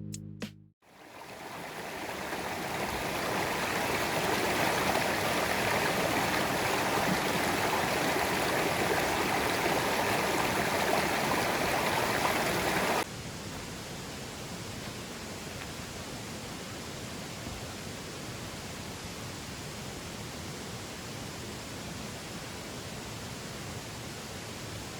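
Stream water rushing steadily, fading in at the start. About halfway it drops abruptly to a softer, even hiss.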